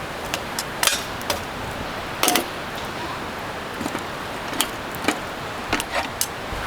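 Scattered light knocks and clinks over a steady hiss.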